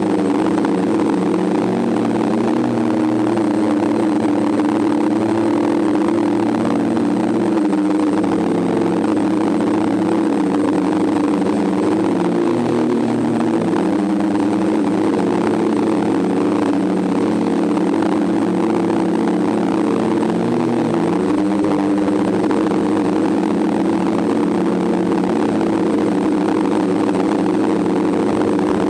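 DJI F550 hexacopter's six electric motors and propellers running steadily, a many-pitched drone whose pitch shifts briefly a couple of times.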